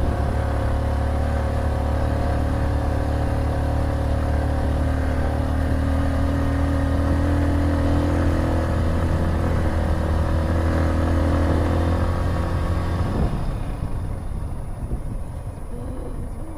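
Motorcycle engine running hard under steady throttle, rising a little in pitch partway through. The throttle closes about thirteen seconds in and the engine drops to a quieter run.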